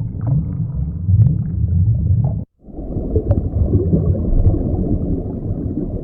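Deep, low-pitched animal calls with slowly gliding pitch, broken by a brief silent gap about two and a half seconds in before resuming.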